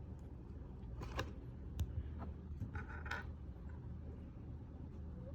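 A few light clicks and a short rustle of small Lego plastic pieces being handled, over a steady low background hum.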